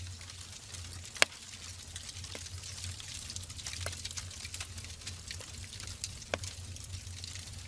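Wood fire burning in a fireplace: irregular crackles and pops over a steady hiss, with one sharp, loud pop about a second in.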